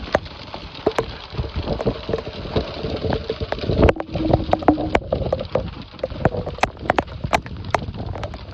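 Heavy rain with hailstones striking a hard surface: a dense, steady downpour broken by many sharp, irregular knocks.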